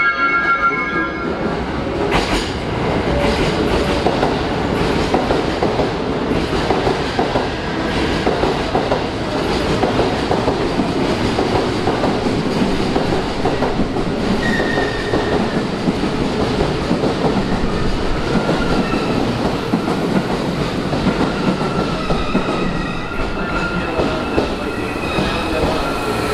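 JR West electric commuter train running in along the platform, a steady rumble with wheels clattering over rail joints. Thin high squeals from wheels and brakes come in during the later part as the train slows.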